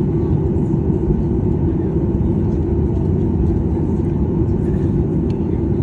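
Steady low rumble of aircraft cabin noise inside a Boeing 737-800.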